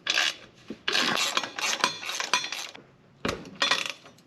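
Metal hand tools clinking and scraping against the exhaust hardware while bolts are undone under the car, in several separate bursts.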